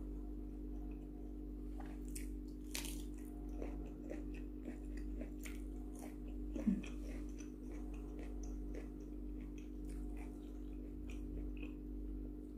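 Close-up chewing of a hand-fed mouthful of rice and sambal: soft wet mouth clicks and smacks, with a brief slightly louder low sound about halfway through, over a steady low electrical hum.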